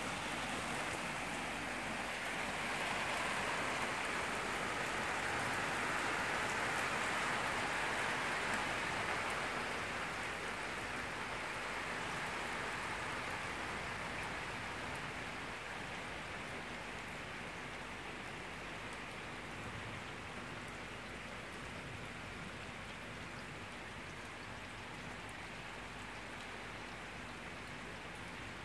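Heavy rain pouring down in a steady hiss, swelling a few seconds in and then easing gradually toward the end.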